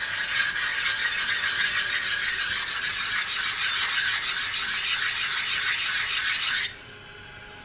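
Silicon carbide dressing stone scrubbed against a sharpening stone to flatten its surface: a steady, gritty stone-on-stone scraping that stops abruptly about a second before the end.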